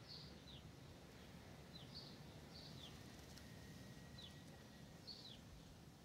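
Faint rural ambience: a bird gives short falling chirps, often in pairs, every second or two, over a low, quiet wind rumble.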